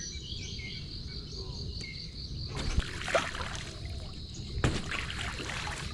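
Crickets chirring steadily at a high pitch over a low water rumble, with two splashy paddle strokes from a small boat, about two and a half seconds in and again near five seconds.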